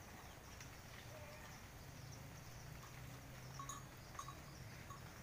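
Near silence: faint background with a low steady hum and a few faint ticks near the end.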